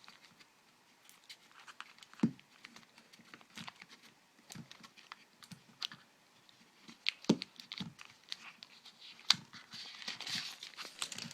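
Scattered light clicks, ticks and crinkles of protective plastic film being peeled off a small portable speaker and the speaker being handled, with a few sharper clicks about two, seven and nine seconds in.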